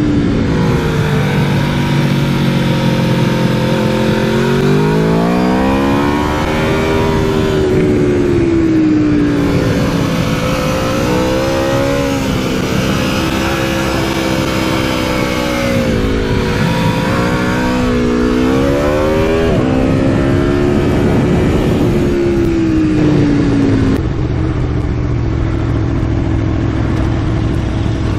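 Aprilia Tuono V4 motorcycle's V4 engine heard onboard, its pitch climbing and falling again and again as the bike accelerates and slows. About 24 s in it drops to a low, steady note.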